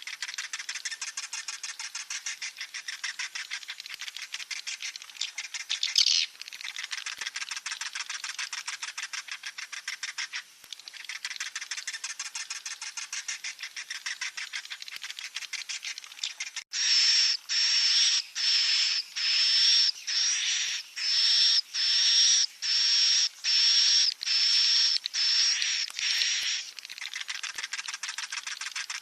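Swiftlet chick calls: a dense, rapid, high-pitched twittering. A little past halfway it gives way to a run of louder, evenly spaced cheeps, about one and a half a second, each with a steady high tone. The twittering returns near the end.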